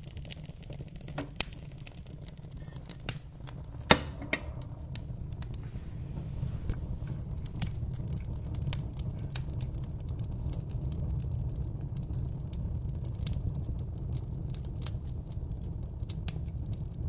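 Wood fire crackling, with scattered sharp pops over a steady low rumble; the loudest pop comes about four seconds in.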